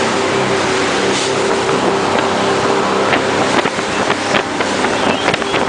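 Jet boat running at speed: a steady engine drone under heavy rushing wind and water noise. The engine tone fades into the rush about halfway through, with a few sharp knocks or splashes.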